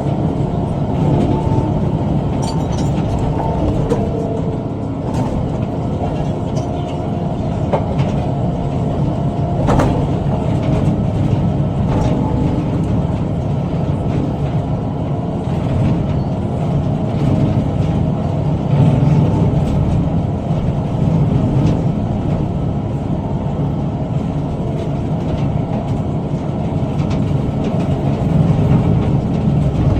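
Tractor running under load while pulling a bush hog rotary cutter through brush: a steady low engine and blade drone with scattered sharp knocks, the loudest about ten seconds in.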